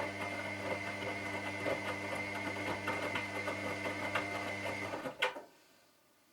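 Washing machine running with a steady motor hum and small rattling clicks; about five seconds in it stops with a sharp click and the sound dies away.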